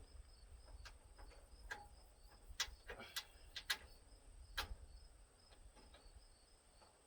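Scattered light clicks and taps of grille mounting hardware being worked into place, over a faint, evenly pulsing insect chirp.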